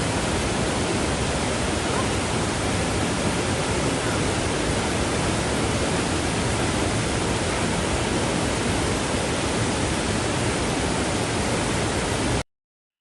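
Steady rushing water, an even roar with no rhythm or tone, that cuts off suddenly near the end.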